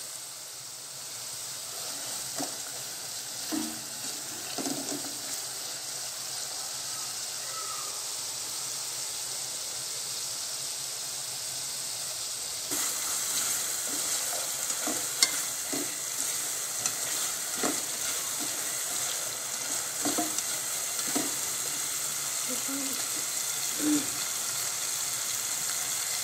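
Onion and spice paste (masala) frying in oil in a pan and being stirred: a steady sizzle with short scrapes and taps of the stirring utensil against the pan. About halfway through, the sizzle gets louder and brighter, and the scrapes come about once a second.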